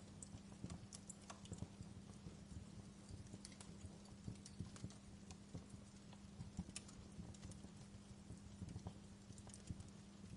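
Wood fire crackling in a fireplace: irregular sharp pops and snaps scattered over a low, steady rumble of the flames.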